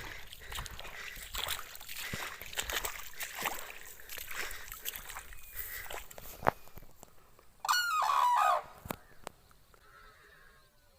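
A common crane gives one loud trumpeting call lasting about a second, falling slightly in pitch, about two-thirds of the way through. Before it come several seconds of dense crackling and clicking noise.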